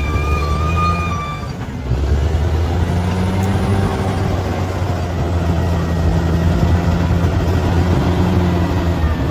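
Bulldozer's diesel engine running under load with a steady low drone; it dips briefly just before two seconds in, then runs louder again.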